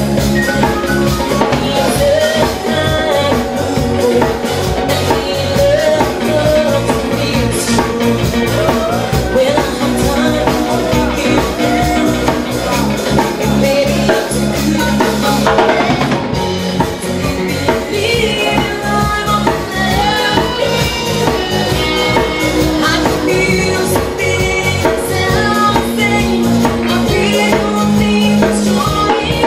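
Live band music with a steady drum kit beat, bass and melodic instrument lines.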